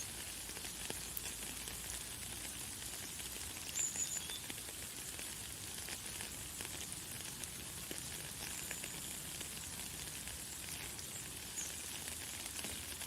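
Light, fine rain falling steadily as a high crackling hiss of many small drops. A few brief high bird chirps sound over it, the clearest about four seconds in.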